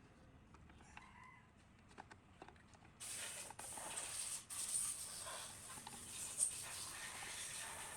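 A few light clicks and taps, then about three seconds in a steady, high hiss of spraying starts abruptly and runs on, broken twice briefly near its start.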